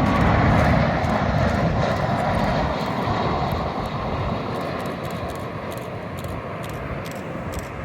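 Jet engines of a South African Airways airliner on approach to land, a loud rumble that fades steadily as the aircraft moves away.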